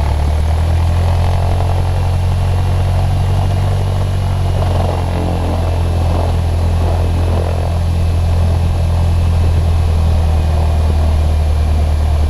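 Cessna 152's four-cylinder Lycoming engine and propeller running steadily at an even pitch, heard from inside the cabin.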